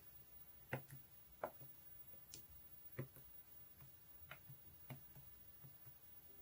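Faint, irregular clicks and light knocks, about a dozen of them spread unevenly, the sharpest near the start and about three seconds in.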